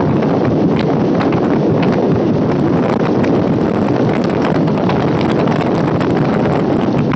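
Electric multiple unit local train running at speed: a steady rush of wind on the microphone, with a quick, uneven clatter of the wheels and coaches on the track.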